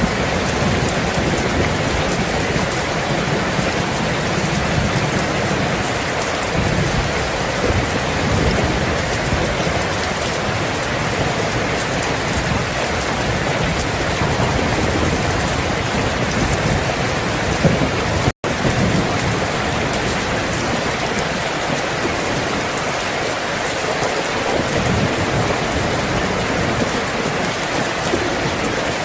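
Steady heavy rain falling, with low thunder rumbling in the first half. The sound cuts out for a split second about eighteen seconds in.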